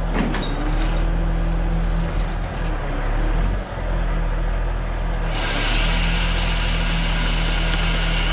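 A log-lifting crane's heavy engine running steadily, with a loud hiss joining in about five seconds in.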